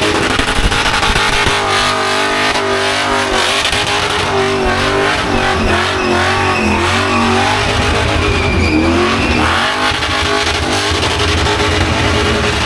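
Car doing a burnout: its engine is held at high revs, the pitch wavering up and down, over the steady noise of spinning tyres.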